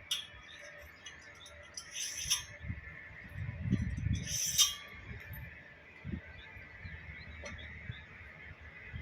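Metal parts of a multistage pump being handled during assembly: a couple of short scrapes and clinks, about two seconds in and again near the middle, amid soft low knocks, over a faint steady high whine.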